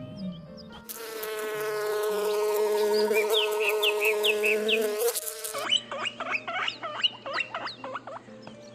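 A flying insect buzzing: a steady, high droning hum that lasts about four seconds and cuts off suddenly. It is followed by a run of quick, sweeping chirps.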